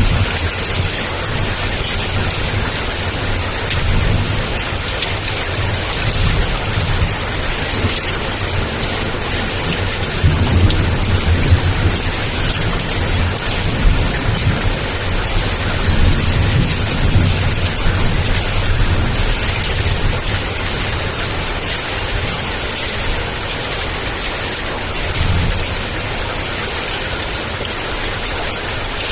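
Heavy rain pouring down in a steady hiss, with thunder rumbling low in several rolling swells, the strongest about ten to twelve seconds in.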